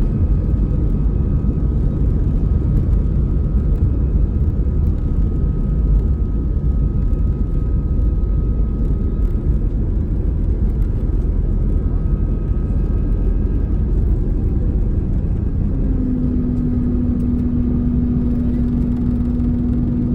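Passenger airplane's engines and rumble heard from inside the cabin during the departure, a loud steady roar; a steady hum comes in about three-quarters of the way through.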